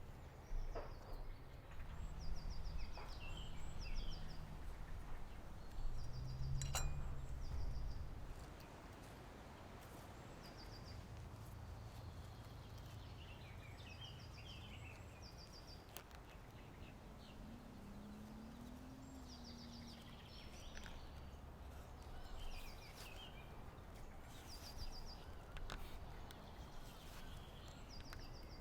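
Small songbirds calling, with short chirps and rapid trilled phrases repeating every few seconds. A low rumble underlies the first third, with one sharp click about seven seconds in.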